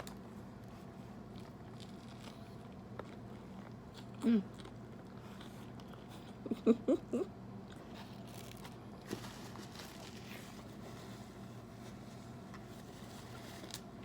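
A person chewing and biting into a tuna sandwich on wheat bread, with a short closed-mouth hum about four seconds in and a few louder hums of enjoyment around seven seconds.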